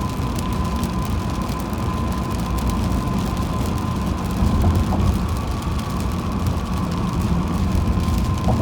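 Car driving on a wet highway: a steady low rumble of tyres and road, with a constant thin whine above it and scattered faint ticks.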